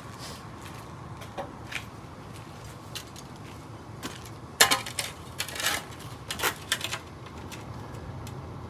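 Scattered knocks and clinks of things being handled and set down, loudest about four and a half seconds in, over a steady low hum.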